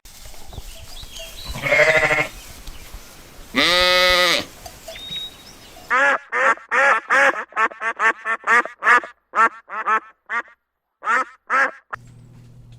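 An animal calling: two longer pitched calls, then a fast run of short repeated calls, about two or three a second, that stops shortly before a low steady hum near the end.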